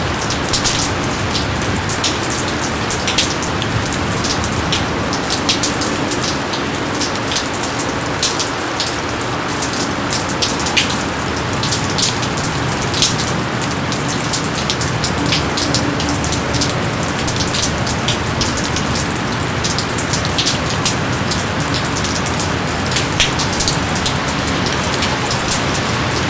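Steady heavy rain falling in jungle, a dense even hiss with many close, sharp drops striking leaves and surfaces scattered throughout.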